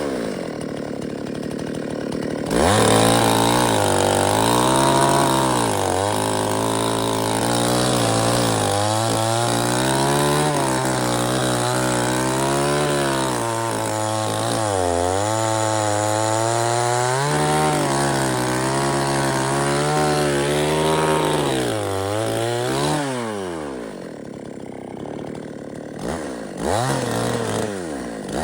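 Chainsaw cutting wood: a couple of seconds in the engine is opened up and held at high revs, its pitch sagging and recovering as the chain bites. Near the end it winds down and is blipped a few times.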